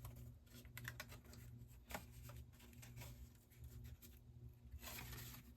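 Faint rustles and light taps of cardstock being handled and pressed together, over a low steady hum.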